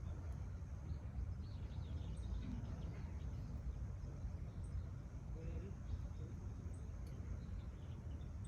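Outdoor ambience: a steady low rumble, with faint, scattered bird chirps over it.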